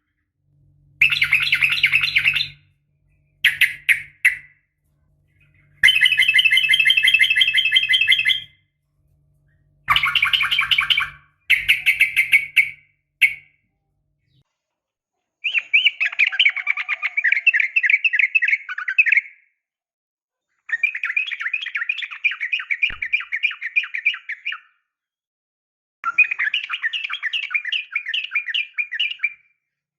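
Sooty-headed bulbul (trucukan) calling: about eight bursts of rapid chattering notes, each one to four seconds long, with short pauses between them. This is the call sold as a female calling for a male.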